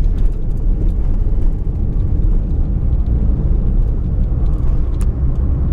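Fiat Uno driving, heard from inside the cabin: a steady low engine and road rumble, with one faint tick about five seconds in.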